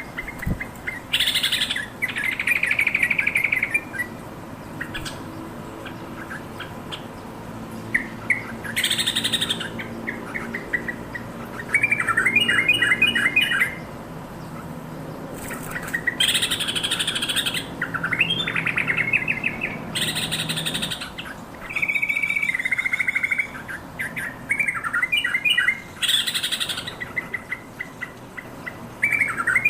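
Yellow-vented bulbul (trucukan) singing: repeated bubbly, chattering phrases every few seconds, mixed with short harsh, hissy bursts.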